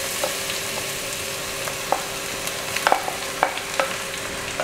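Shredded tender jackfruit sizzling in hot coconut oil in a clay pot as it is tipped in, then stirred with a wooden spatula, with a few light knocks against the pot in the second half.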